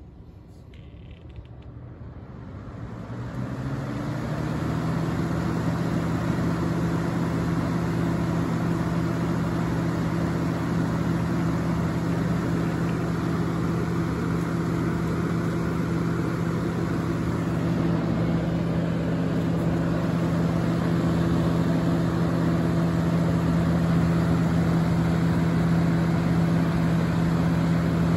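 1997-98 Lasko 3733 box fan with its full-size Marco motor started on high speed: its hum rises in pitch as the blade spins up over the first few seconds, then settles into a steady rush of air with a low hum. The blade, reattached to the shaft with JB Weld, runs with a slight balance issue.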